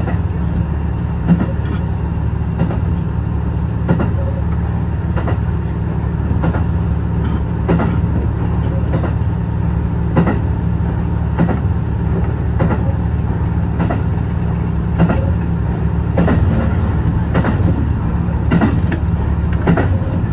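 Hybrid diesel train running at speed. A steady low drone runs throughout, and the wheels click over rail joints at an even pace, about one joint every 1.25 seconds.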